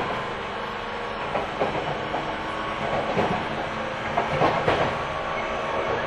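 Running noise heard from inside the 475 series electric multiple unit motor car KuMoHa 475-42 as it travels at speed: a steady rumble with the wheels clacking over rail joints several times, most loudly about four to five seconds in.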